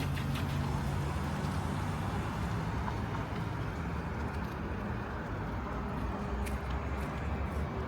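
Road traffic on a city street: a steady rumble of car engines and tyres.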